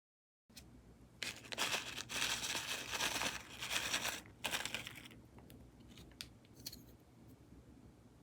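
Plastic packaging crinkling and tearing as a slime container is unwrapped, in a few rough bursts that stop about five seconds in, followed by a few faint clicks.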